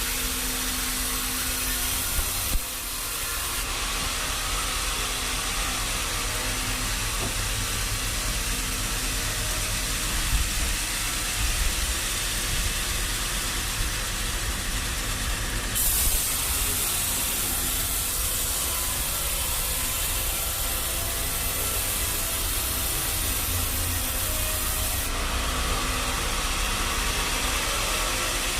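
Sawmill machinery running: a steady rushing, hissing mechanical noise over a low rumble that changes character a few times, with a few light knocks.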